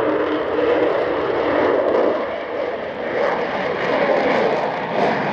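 The four Rolls-Royce Olympus turbojets of the Avro Vulcan B2 XH558 give a loud, steady jet noise as the bomber departs. A low steady tone fades out in the first half second.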